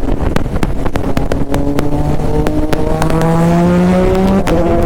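Triumph three-cylinder sport motorcycle engine accelerating hard, its pitch climbing steadily from about two seconds in, with wind rushing over the microphone.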